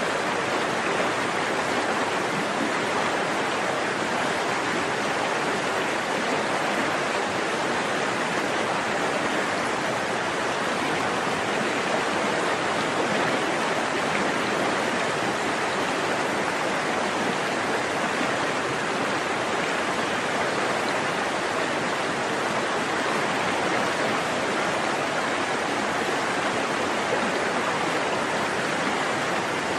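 A forest stream running steadily over rocks, a continuous rushing babble of water.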